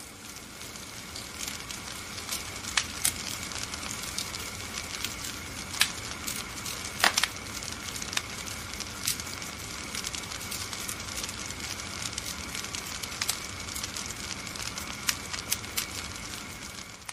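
Fire burning in a fireplace, crackling steadily with frequent sharp pops, the loudest about seven seconds in.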